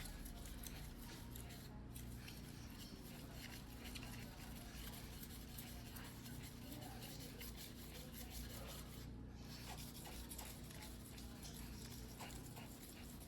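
Steel blade of a white-steel fuguhiki sashimi knife scraping back and forth on a whetstone during hand sharpening: a faint, continuous gritty rasp made of many small ticks.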